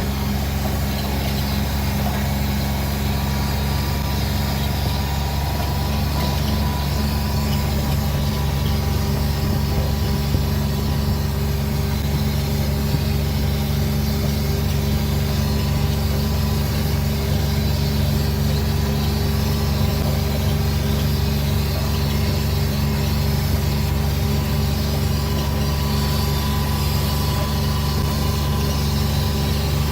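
Motor vehicle engine running at a steady, even drone, with no change in speed or load.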